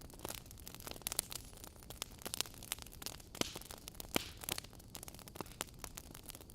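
Wood fire crackling: irregular sharp pops and snaps over a soft steady hiss and low rumble, the loudest pops a little past the middle.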